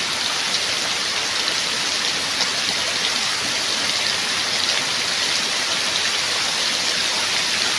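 Steady rain falling, an even hiss with the patter of drops on a surface.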